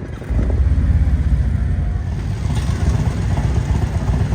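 A motorcycle engine starts up about a third of a second in and then runs steadily with a low, rapid pulse.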